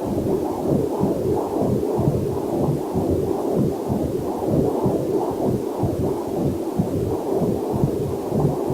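Heartbeat picked up by a fetal Doppler monitor: a whooshing pulse repeating quickly and evenly, about two to three beats a second, with a faint waterfall hiss mixed in underneath.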